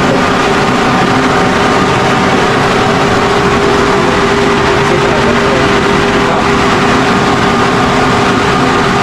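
A motor running steadily and loudly, an even hum with steady tones that does not change.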